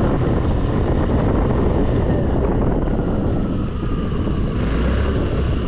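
Scooter under way in the rain: its engine running beneath a steady rush of wind and road noise at the microphone.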